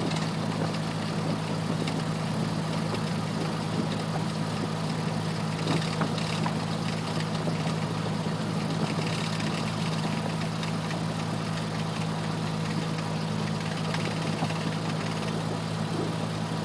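Cessna 172F's six-cylinder Continental O-300 engine idling steadily at low power, heard through the cockpit intercom audio.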